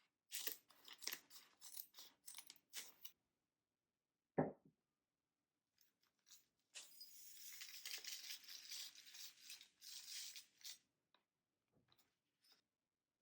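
Snack packaging being handled: a run of crinkles, a single sharp knock about four seconds in, then several seconds of steady tearing as a wrapper is ripped open.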